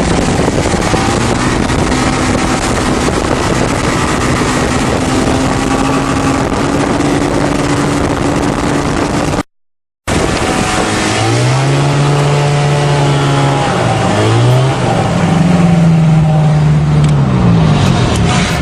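An engine running over a heavy hiss. Its pitch holds steady, then climbs slowly. It cuts out abruptly just before halfway. When it returns, the pitch swings up and down as the engine revs, rising again near the end.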